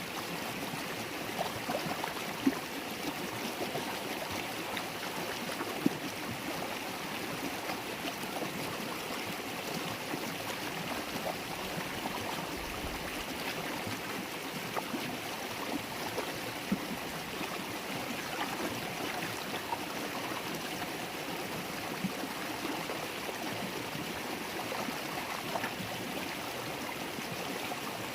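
River water flowing and babbling, a steady rush with many small gurgles and a few louder splashes.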